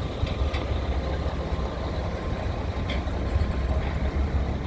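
Heavy diesel equipment running steadily with a low, even rumble, with a few faint clicks on top.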